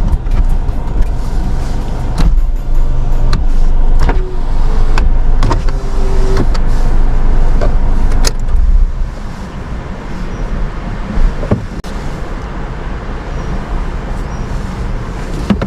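Car heard from inside the cabin: a loud low rumble with scattered clicks and knocks that drops to a quieter rumble about nine seconds in.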